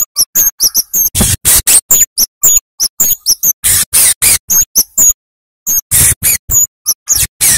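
Flowerpecker (cabe-cabean) calling in a fast, loud run of sharp chips and ticks, several a second, mixed with short high notes that hook upward. It pauses briefly a little after five seconds in.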